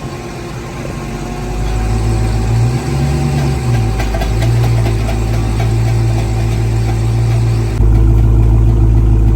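Dodge Challenger's engine idling on a chassis dyno, with a brief swell in pitch about three seconds in. Near the end the sound changes abruptly to a louder, deeper idle.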